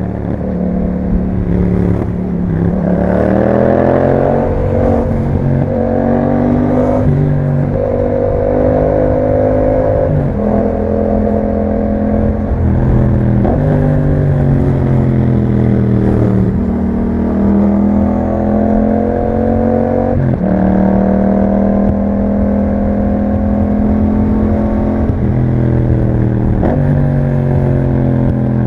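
Yamaha MT-07's 689 cc parallel-twin engine through an Akrapovic exhaust, riding under way. Its pitch rises and falls, and it is broken about eight times by short sudden dips that sound like gear changes.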